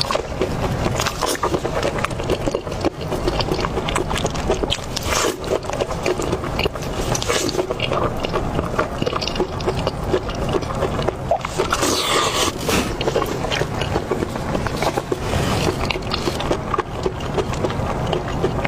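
Close-up chewing of pig's ear and its cartilage, a dense, continuous run of crunches, clicks and wet mouth sounds.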